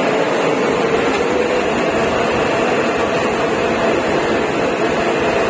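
A coil-type steam boiler running, most likely its burner and blower: a loud, steady roar with a constant hum.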